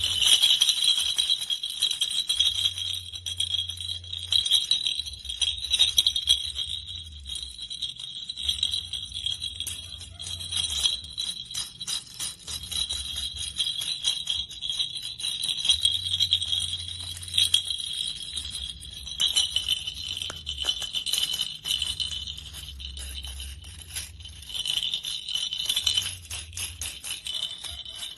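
A toy jingling and rattling without pause, dense rapid clicks over a bright, shimmering ring.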